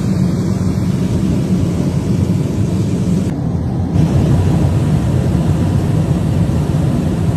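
Loud, steady low roar inside an airliner cabin in flight: air rushing through the hole left where a fuselage door panel blew out, together with engine noise.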